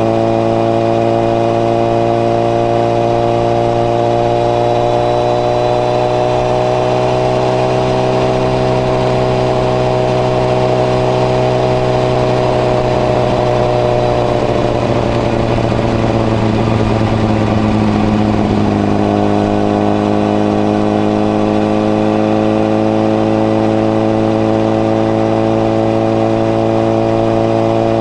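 Honda CBR1000RR (SC57) inline-four engine running through a modified Moriwaki muffler with its baffle fitted, at steady riding revs. The engine note sinks slowly through the middle and steps back up about two-thirds of the way through.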